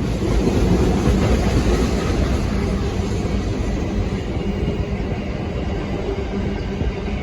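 A train passing close by: a loud, steady rumble of wheels on rails with a low hum underneath. It starts abruptly at full level.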